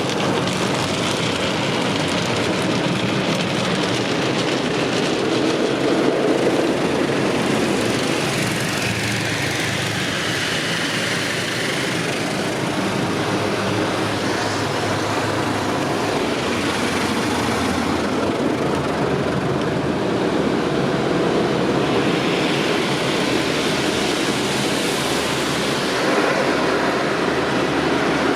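Sonny's tunnel car wash equipment working on the car, heard from inside the cabin: a loud, steady rush of water spray and brushes against the body.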